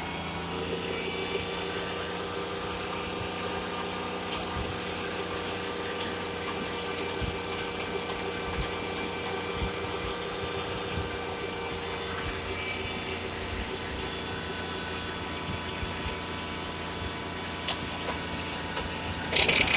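A vehicle engine running with a steady hum, with a few light clicks scattered through it.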